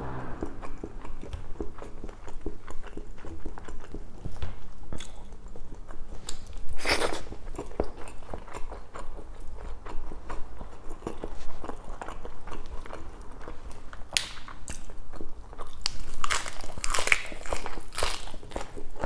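Close-up mouth sounds of someone eating pork belly adobo: steady chewing and biting with many small wet clicks. Louder bursts come about seven seconds in and again near the end.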